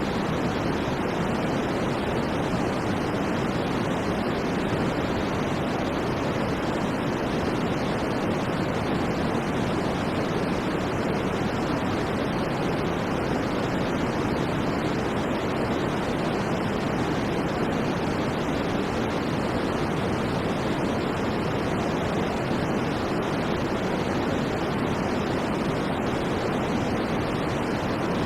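Steady electronically generated white noise for sleep: an even, unbroken hiss that carries most of its weight in the low and middle range and never changes.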